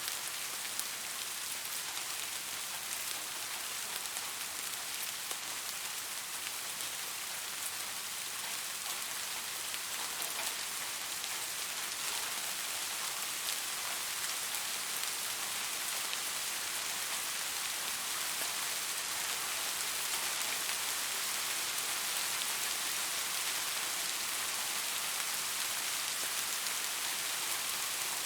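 Steady rain falling, a continuous hiss with the patter of individual drops striking a surface.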